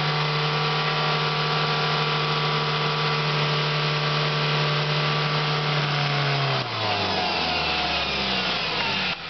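Car engine held at steady, raised revs while the vehicle works along a rough forest track; about two-thirds of the way in the revs drop, then climb again.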